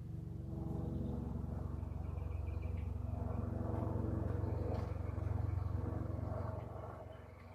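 Low engine rumble of a passing motor vehicle, swelling about a second in and easing near the end. A faint bird chirp sounds about two seconds in.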